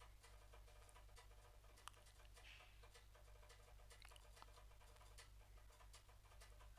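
Near silence: faint room tone with a low hum and soft, irregular computer mouse clicks, one a little louder about two seconds in.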